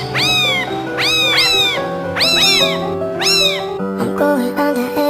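Cat meowing repeatedly: about four bouts of high-pitched calls, each rising then falling, some in quick pairs, over background music. The meowing stops about four seconds in and the music carries on.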